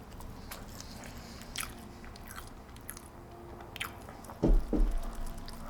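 Close-miked chewing and biting of a smashburger: soft wet mouth clicks, with a cluster of louder low thumps about four and a half seconds in.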